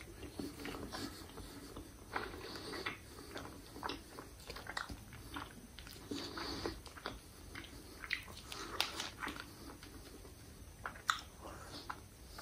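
Close-up chewing of a mouthful of cheeseburger: wet, irregular mouth clicks and smacks, a few sharper ones near the end.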